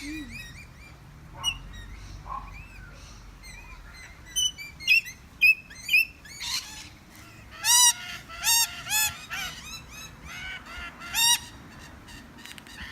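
Wild birds calling: scattered short chirps at first, then runs of loud, harsh, repeated squawks about eight seconds in and again near eleven seconds.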